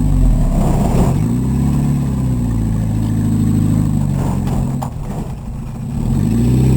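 Volkswagen Rabbit engine running under way, the revs rising and falling. The engine note drops back about five seconds in, then climbs again near the end.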